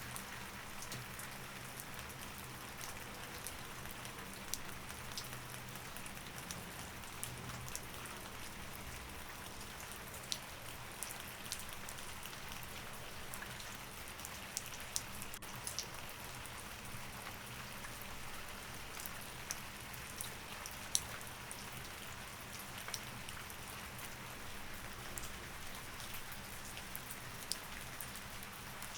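Steady rain falling, with many individual drops clicking sharply on a surface, over a faint low steady hum.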